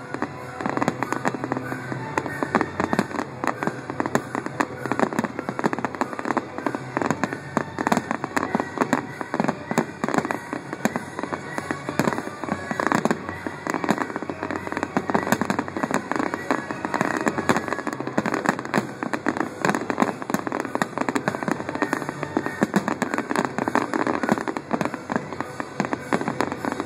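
Fireworks display in a dense barrage: shells bursting and crackling many times a second, bang after bang with no let-up.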